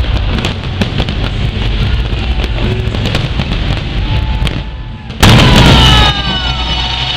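New Year fireworks crackling and popping in quick succession over background music. About five seconds in, one loud burst lasts just under a second, followed by sliding whistling tones.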